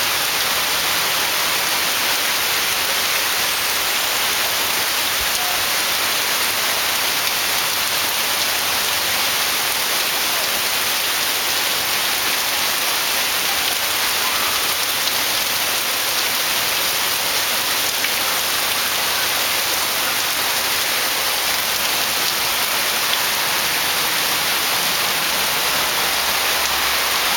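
Heavy rain pouring down in a steady, even hiss, falling on trees and standing floodwater.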